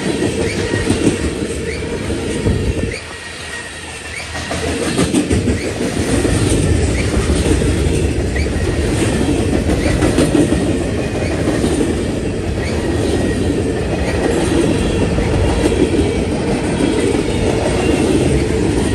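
Freight cars of a passing train rolling by at close range: a steady rumble and clatter of steel wheels on rail, with faint high wheel squeals. The noise drops briefly about three seconds in, then swells again.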